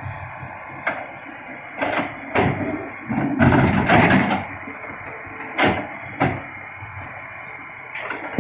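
Rocks knocking and clattering as they are loaded into a dump truck: separate knocks, then a longer rattling pour about three and a half seconds in and two more knocks after it, over a steady hum.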